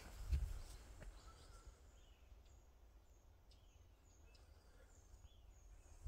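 A footstep on the dirt trail just after the start, then the walking stops. Over soft outdoor background noise, a bird gives short, faint, high chirps over and over.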